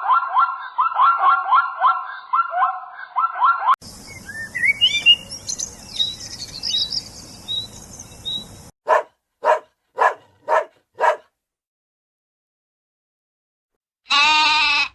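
A run of separate animal calls: fast repeated chattering calls for the first few seconds, then bird song with chirps over a steady hiss, then five short calls about half a second apart. After a few seconds of silence, a long bleat-like call starts near the end.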